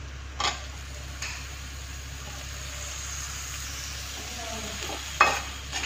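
Cauliflower florets sizzling in hot oil and spices in a steel kadhai, a steady hiss, with a sharp clink of metal against the pan near the end.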